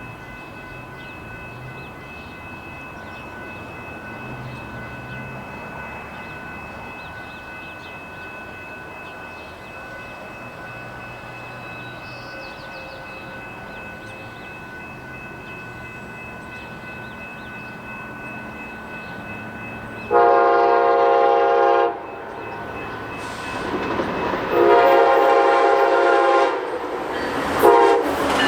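Amtrak Cascades passenger train approaching with a steady rumble and a faint high whine that slowly grow louder, then sounding its horn: a loud two-second blast about two-thirds of the way in, a second blast a few seconds later, and a short toot near the end.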